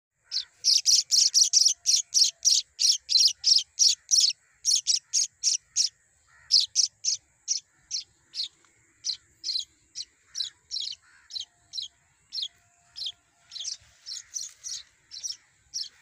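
Small bird's sharp, high chirps repeated in a fast series, about four a second and loudest over the first few seconds, then slowing to about two a second, with a faint steady high tone behind them.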